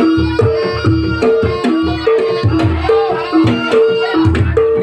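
Javanese traditional percussion music for a trance dance: hand-drum strokes under a repeating two-note pitched figure, keeping a steady, even beat.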